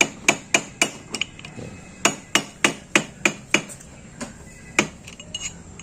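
Small hammer tapping a tool to bend the safety lock washer's tab over the clutch nut of a Yamaha MT-15, so the nut cannot work loose. Sharp metallic strikes about three or four a second in two runs, then one stronger blow and a few lighter taps near the end.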